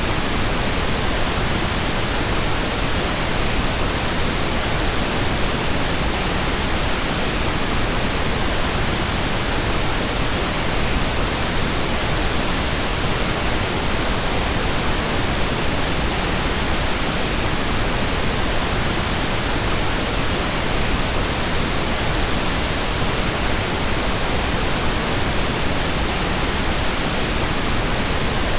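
Pink noise: a steady, even hiss spread across the whole range of hearing, with no changes or events.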